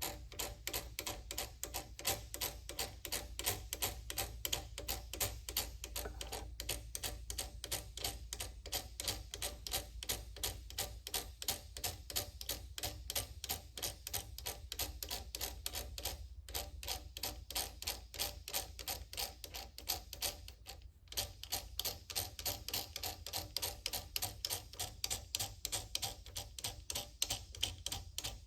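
Rapid, even mechanical clicking from a milling machine as a tap is started in a carburetor's fuel inlet, about four clicks a second over a low steady hum, breaking off briefly twice.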